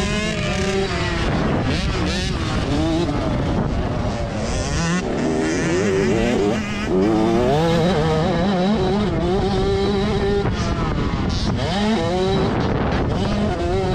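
Several motocross bikes racing together, their engines repeatedly revving up through the gears and dropping back, overlapping one another.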